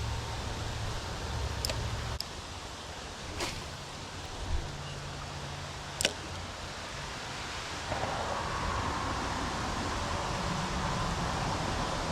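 Steady hiss of light rain and running creek water, with a few short sharp clicks in the first half.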